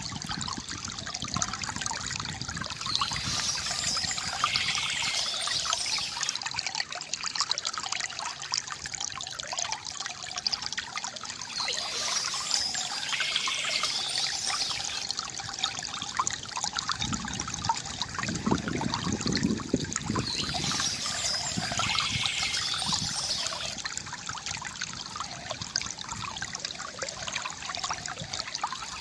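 Water from a bamboo fountain trickling and gurgling steadily, with a deeper gurgle in the middle. Birds chirp in three bursts, about nine seconds apart.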